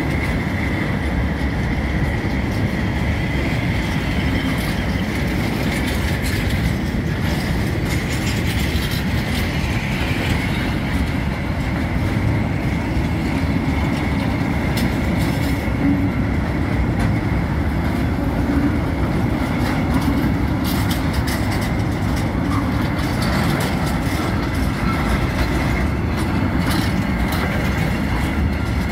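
Loaded freight train of hopper wagons rolling past close by: a steady heavy rumble of steel wheels on rail, with irregular clicks as the wheels cross the rail joints. A faint steady high tone runs through it, clearest in the first half.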